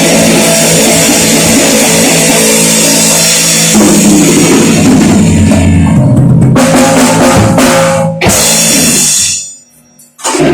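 Loud rock band playing, with a pounding drum kit, bass drum, cymbals and electric guitar. The music breaks off briefly after about eight seconds, stops almost completely for about a second near the end, then comes back in.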